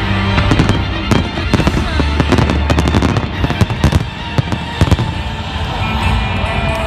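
Fireworks bursting and crackling, many bangs in quick, irregular succession, over music playing underneath.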